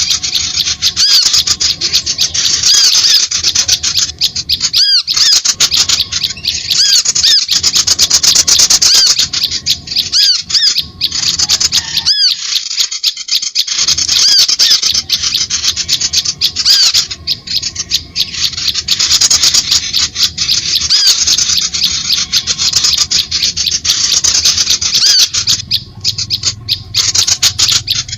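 Dense, continuous chirping and twittering of small birds, a fast stream of high notes with a short pause about halfway through: a bird-lure (pemikat) call recording meant to draw birds in.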